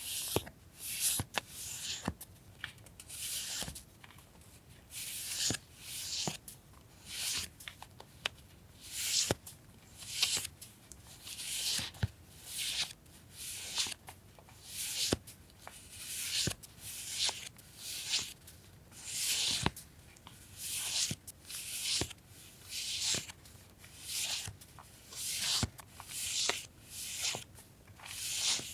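Sheets of journaling paper being handled and flipped one after another: a soft papery rustle about once a second, with occasional light clicks.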